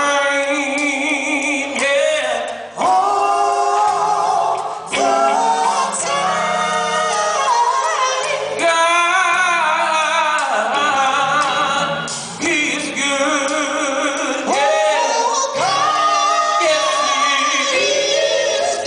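Live gospel group singing sustained phrases in harmony over low accompaniment.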